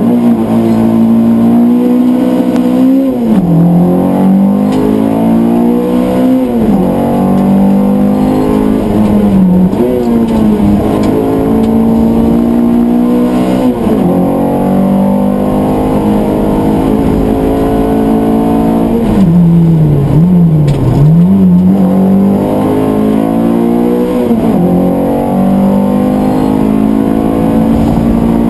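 Peugeot 205 Rallye Group A four-cylinder engine, heard from inside the cabin, pulling away from the start and driven hard. Its pitch climbs through each gear and falls back at every gear change or braking point, every few seconds, with a double dip a little after two-thirds of the way.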